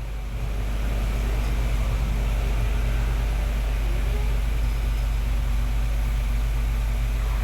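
Chevrolet Spin engine idling steadily as it warms up. It gets a little louder about half a second in, then holds.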